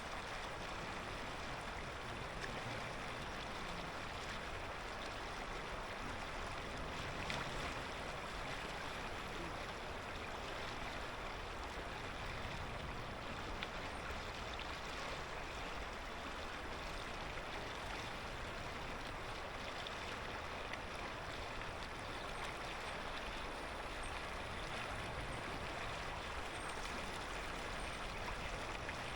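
A clear mountain river flowing over stones, a steady even rush of water.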